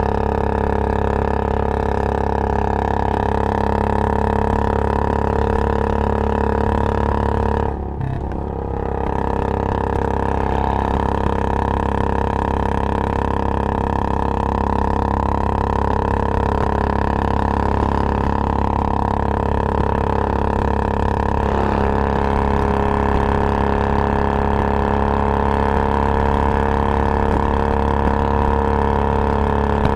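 Royal Enfield Bullet Classic 350 single-cylinder four-stroke engine running loudly at a steady, unchanging speed, with a brief drop in level about eight seconds in.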